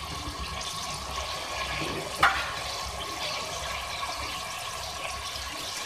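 Chicken, tomatoes and whole spices sizzling in hot oil in a metal pot, a steady hiss, with one sharp click a little over two seconds in.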